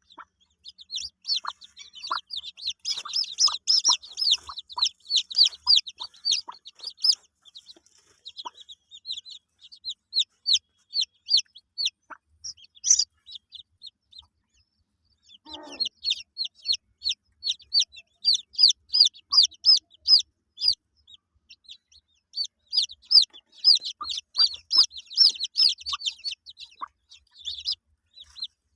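A brood of day-old chicks peeping in quick, high, overlapping chirps, with a hen clucking low now and then. The peeping stops for a second or two about halfway through, and a single longer, lower call comes just as it starts again.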